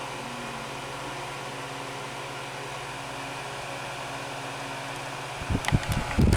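Galaxy 6-inch table fan, model 3146, running on high with a steady electric motor hum and blade whoosh. About five and a half seconds in come a few clicks and then a loud, gusty rumble of the fan's air blowing on the microphone.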